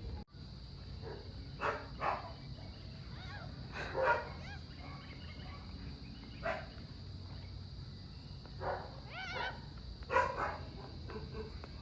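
A dog barking several times at irregular intervals, short separate barks with some gaps of a few seconds.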